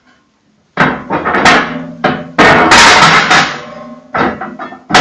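Heavy cast-iron internal parts of a Koza K6 stove clanking as they are worked loose and pulled out. A series of hard metal knocks starts about a second in, with a lingering metallic ring and a longer loud scraping clatter near the middle.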